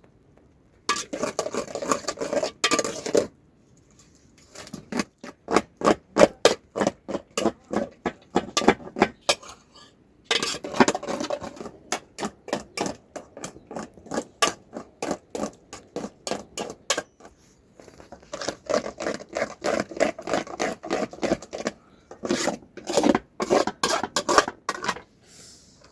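Kitchen utensils knocking and scraping against a pot or dish in quick, even strokes, about three to four a second, in runs of several seconds with short pauses between.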